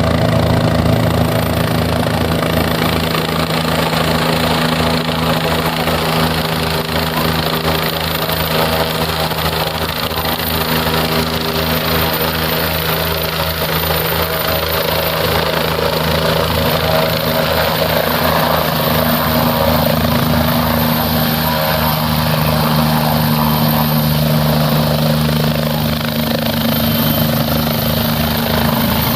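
Helicopter running steadily, its rotor blades beating in a fast even rhythm over a steady engine and gearbox hum.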